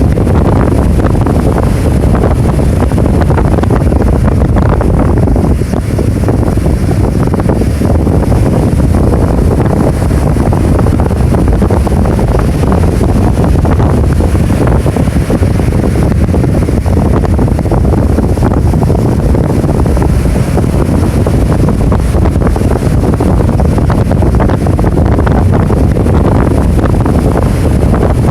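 Typhoon wind blasting the microphone in a loud, unbroken low rumble over rough surf from storm waves.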